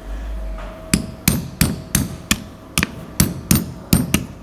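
A hammer striking metal about ten times in quick succession, roughly three blows a second, starting about a second in: knocking on a removed Tesla Model 3 front control arm.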